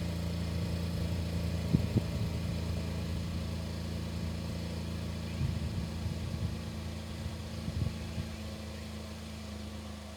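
A steady low engine hum, like an idling motor, with a few light knocks about two seconds in and again between five and eight seconds in. The hum drops away at the very end.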